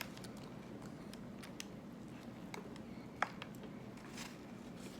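Faint chewing and small handling clicks from someone eating a taco, with one sharper click a little over three seconds in, over a steady low hum.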